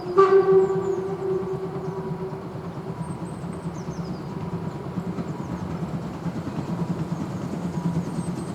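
Saxon VII K narrow-gauge steam locomotive 99 1762 sounding its whistle in one loud blast that fades away over the first few seconds, then running past with a steady, rough rumble.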